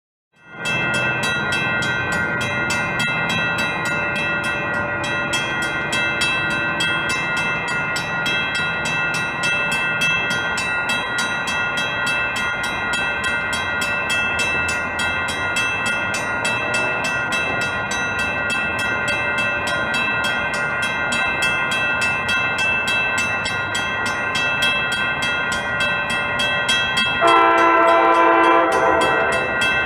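A train running on the tracks: a steady rumble with constant ringing tones over it. Near the end its horn sounds a long blast.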